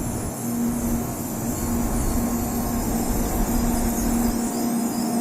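A Sanyo Shinkansen train moving at the station: a steady running noise with hiss and a constant droning tone.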